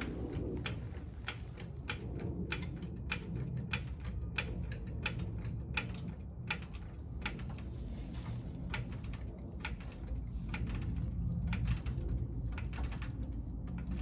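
Floor jack being worked under the car: an irregular run of light clicks and knocks, a few each second, over a low steady rumble.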